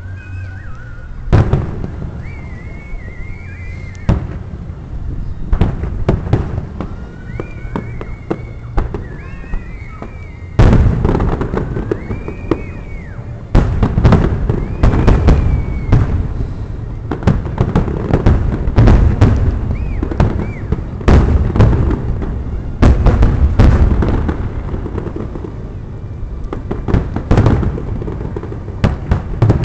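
Aerial fireworks shells bursting in a rapid series of loud booms and cracks, each with a low rumbling echo, coming in heavier volleys around the middle and again near the end. A wavering high-pitched tone comes and goes over the bursts in the first half.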